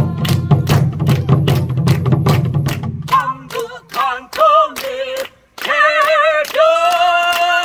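Korean traditional folk singing (sori) with a strongly wavering vibrato over a steady run of drum strokes. A low hum sits under the first three seconds, and the singer holds a long note near the end.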